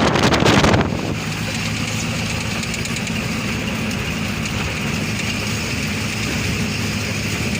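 Vehicle engine running steadily while under way, heard from on board, with a loud rushing noise in the first second.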